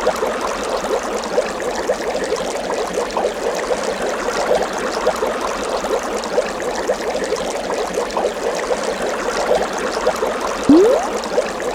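Steady running, bubbling water with many small quick bubbly blips. A short rising swoop comes near the end.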